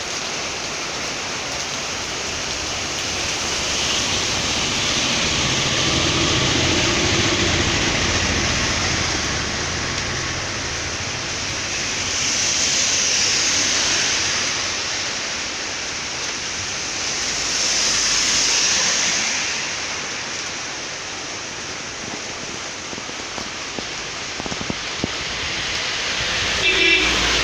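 Heavy rain falling steadily on a road, a continuous hiss that swells and fades a few times.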